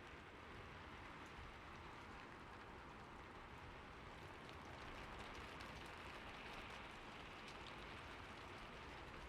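Faint steady rain: an even hiss of rainfall with scattered soft drop ticks.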